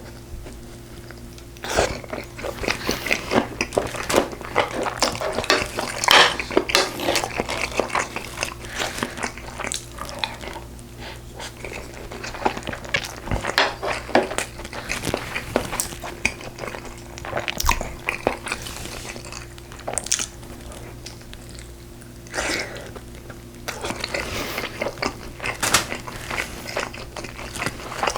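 Close-miked eating of braised pork ribs: irregular chewing, biting and wet mouth smacks with occasional crunches and clicks of utensils, over a faint steady hum.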